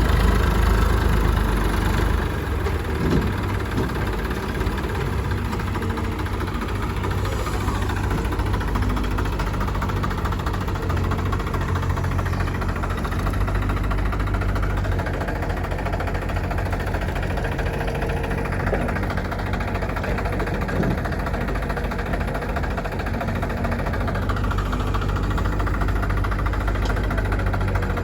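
Heavy diesel engine running steadily at low revs, a continuous low hum a little louder in the first couple of seconds.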